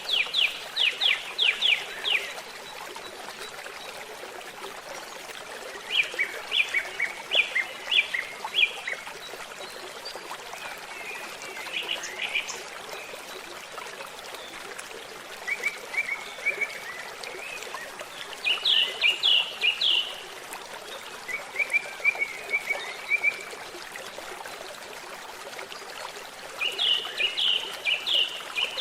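Songbird singing short phrases of quick repeated notes, one every few seconds, over the steady trickle of a babbling stream.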